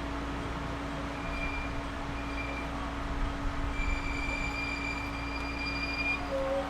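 Series 211-5000 electric train heard from inside the carriage while running, with a steady rumble and a constant hum. Thin high-pitched squeals come and go: short ones about one and two seconds in, and a longer one from just under four seconds to about six seconds in.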